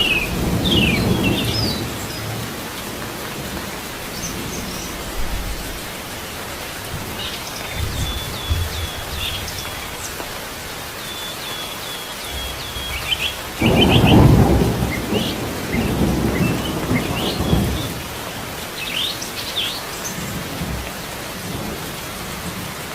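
Steady rain with small birds chirping in short high notes, and a loud low roll of thunder about 14 seconds in that rumbles on for several seconds.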